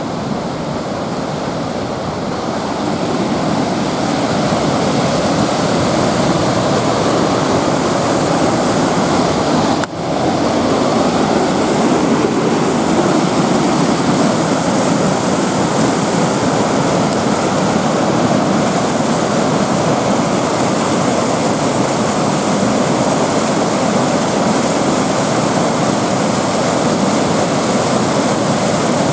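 A small waterfall and its rapids: a loud, steady rush of falling water, growing louder a few seconds in.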